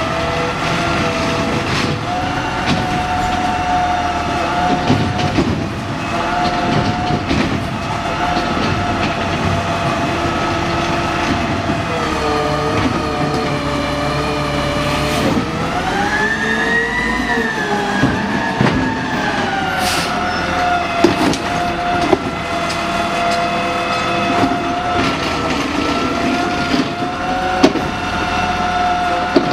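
Garbage truck working, with a steady mechanical whine that rises and falls in pitch about halfway through, and scattered sharp knocks.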